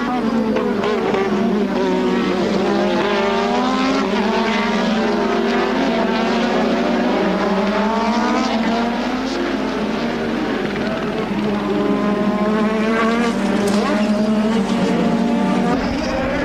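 Several 1986 Formula One cars' 1.5-litre turbocharged engines at racing revs, their overlapping notes rising and falling in pitch as they accelerate, shift and pass.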